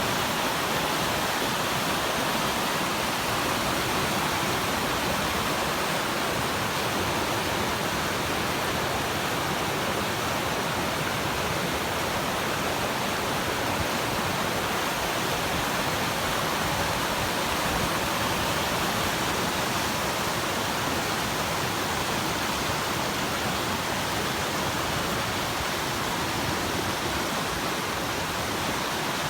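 Steady, even rush of fast-flowing water, a constant hiss with no breaks or changes.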